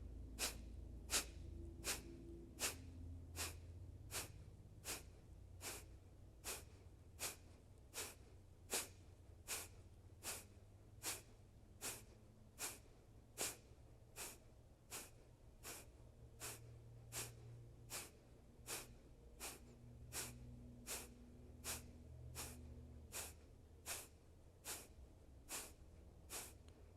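Kapalabhati breathing: a steady run of short, sharp, forceful exhales through the nose, about four every three seconds, each one a quick puff of air driven by the abdominal muscles contracting.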